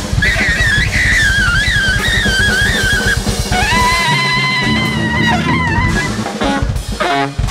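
Live big jazz band playing. Drum kit and bass drive under a wavering lead melody. About four seconds in, long held notes ring out as the drums briefly drop away, and the band hits a few short accented stabs together near the end.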